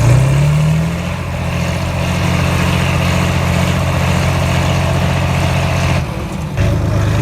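A heavy vehicle engine revs up in the first second, then runs steadily under load. The sound breaks off abruptly about six seconds in, and an engine is heard again shortly after.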